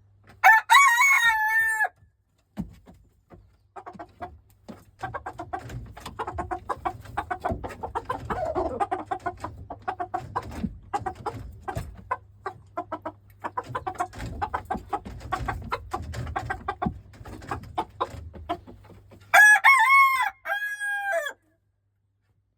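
Silkie rooster crowing twice, once near the start and again near the end, with softer chicken clucking and clicks in between.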